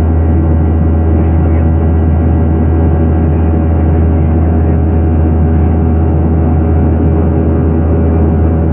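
Boeing 737-900ER's CFM56 jet engines running at steady thrust, heard inside the cabin as a loud, even drone with a strong low hum and faint steady tones above it.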